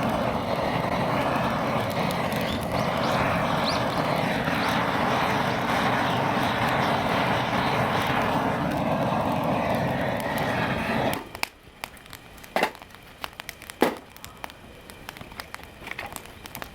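Steady vehicle driving noise that cuts off abruptly about eleven seconds in, followed by a few sharp knocks, as of wood being handled or struck.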